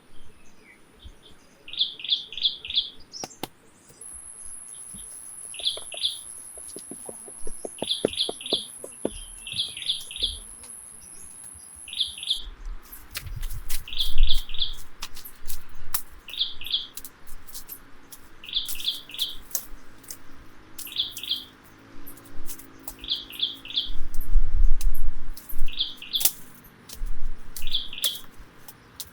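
A bird chirping in quick groups of two to four high notes, repeated every second or two. A thin, steady high whine runs for the first twelve seconds or so. Scattered clicks and low rumbling thumps come in twice, loudest about two-thirds of the way through.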